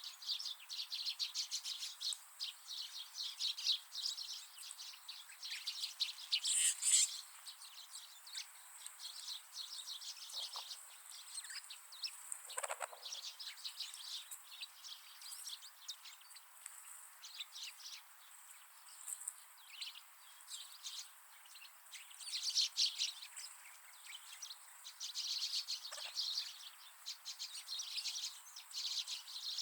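Wild winter birds chirping and calling: many short, quick, overlapping high chirps, busiest at the start, about seven seconds in, and again around twenty-two to twenty-six seconds in.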